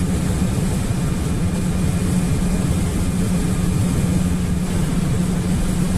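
GAZelle van's engine and road noise heard from inside the cab while driving, a steady low drone.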